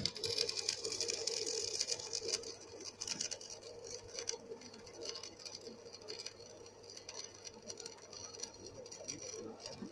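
CO2 MIG welding arc crackling, a dense run of fine sputtering clicks that starts abruptly, is loudest for the first couple of seconds and then goes on more faintly, over a steady low hum.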